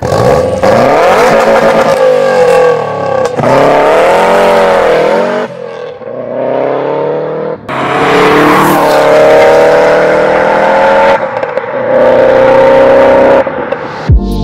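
Subaru Impreza WRX's turbocharged flat-four engine revving and accelerating hard in several short edited passes, its pitch climbing and dropping with each run and gear change.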